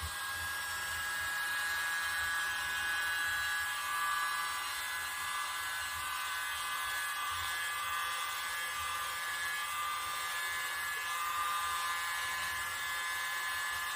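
Small electric air blower running steadily, a motor whine over a rush of air, as it blows thin acrylic paint across a canvas.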